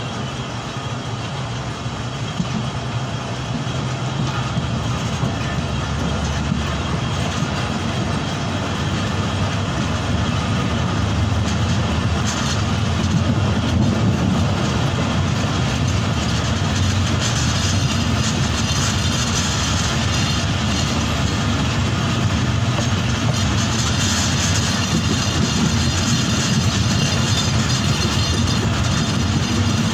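Pakistan Railways Karakoram Express passenger train running, heard from a coach window: a steady rumble of wheels on the rails with a rush of moving air. It grows louder over the first dozen seconds, then holds steady.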